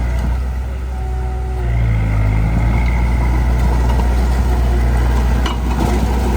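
Heavy-equipment diesel engine running steadily under load, its speed picking up slightly about two seconds in, with a brief knock near the end.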